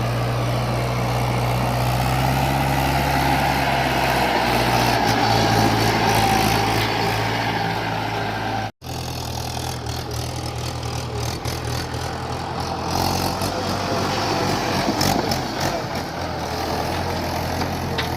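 Mahindra 575 DI tractor's four-cylinder diesel engine running steadily while pulling a loaded trolley on a muddy track. The sound cuts out for an instant about halfway, then the engine carries on at a lower pitch.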